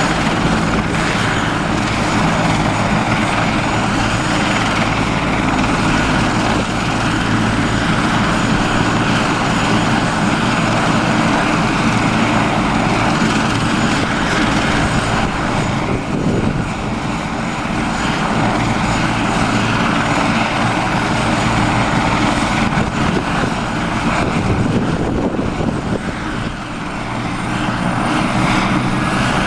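Air ambulance helicopter's rotor and turbine engine running loud and steady, dipping in level briefly twice.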